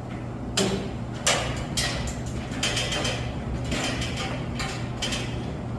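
Irregular clacks and scrapes of metal parts being handled at a boiler, about seven of them spread over several seconds, over a steady low hum.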